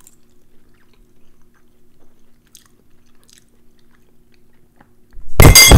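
Two people chewing mouthfuls of oven-roasted eggplant quietly, with small mouth clicks over a faint steady hum. A short, loud burst of sound cuts in near the end.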